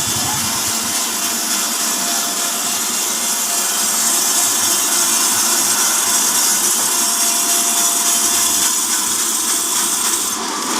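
Horizontal band sawmill driven by a 5 HP electric motor, its blade cutting steadily through a log with a hiss and whine. The sound gets a little louder about four seconds in and eases off near the end as the cut finishes.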